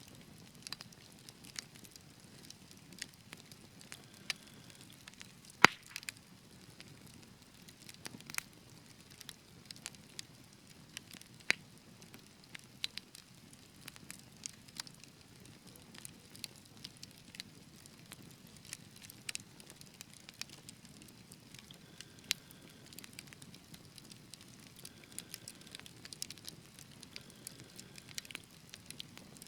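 Wood fire in a fireplace crackling: irregular sharp snaps and pops over a soft low rustle of flame, the loudest pop about six seconds in.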